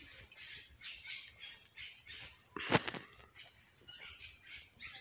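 Faint bird chirping, with short calls repeating every fraction of a second, and one brief rustling clatter a little over halfway through.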